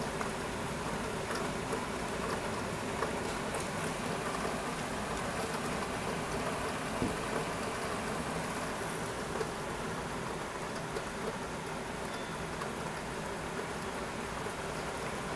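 Steady rain falling during a thunderstorm: an even hiss with scattered small ticks of drops.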